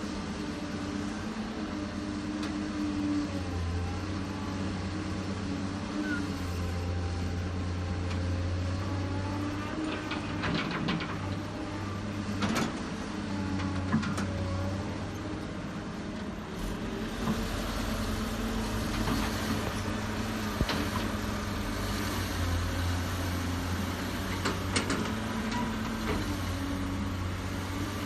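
Diesel engine of heavy earthmoving machinery running steadily under work, with occasional short metallic knocks and clanks.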